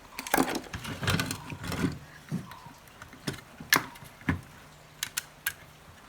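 Small electronic parts being handled on a workbench: irregular light clicks and taps with some rustling, as a small mains transformer and its wires are picked up and moved.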